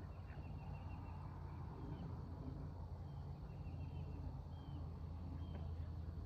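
Faint bird chirps and a short trill of quick repeated notes, over a steady low rumble.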